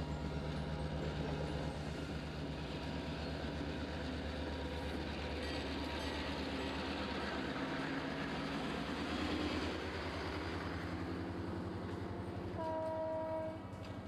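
Excursion train's locomotive running with a steady low rhythmic throb, and one short horn blast, about a second long, near the end.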